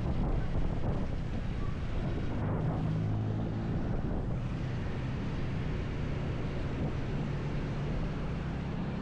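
Motorcycle engine running steadily while riding, under heavy wind noise on the camera microphone.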